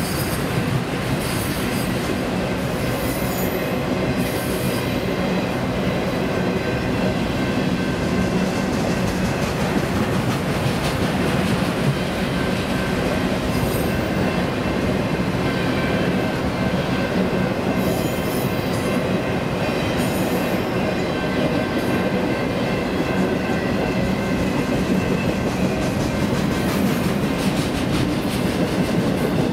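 Enclosed autorack cars of a freight train rolling past at steady speed: steel wheels on rail making a continuous rumble with clickety-clack, and short high-pitched wheel squeals now and then.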